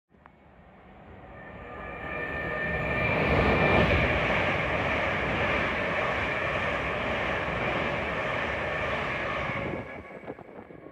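Electric train passing through at speed: the rumble of wheels on rail builds over the first few seconds and holds, with steady high whining tones from the traction equipment, then falls away sharply near the end.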